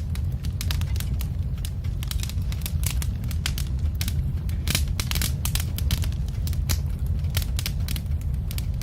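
A wood fire crackling in a fireplace: irregular pops and snaps over a steady low rumble.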